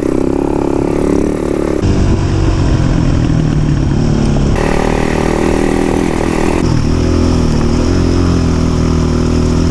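Enduro dirt bike engines running under way, with the engine note and pitch changing abruptly about every two seconds.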